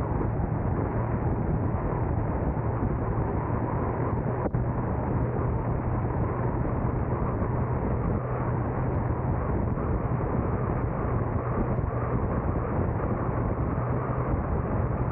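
Steady driving noise of a car on the road: an even rumble of tyres and engine with a constant low hum. There is one brief click about four and a half seconds in.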